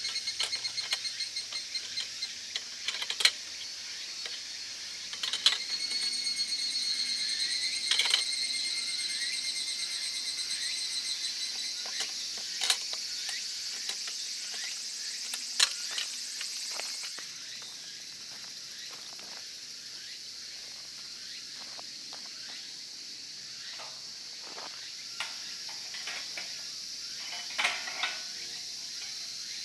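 Insects chirring steadily in a high, fast-pulsing trill, a little softer after the middle. Scattered sharp clicks and knocks sound over it.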